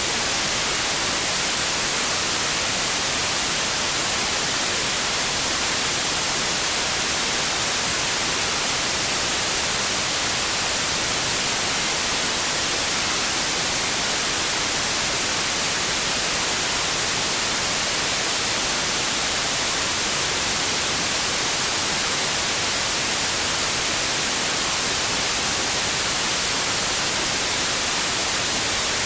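Steady, unchanging white noise, an even hiss brightest in the high end.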